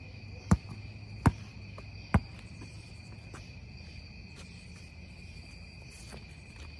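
A basketball bouncing three times on the court in the first couple of seconds, each about a second apart, over a steady high chirring of insects.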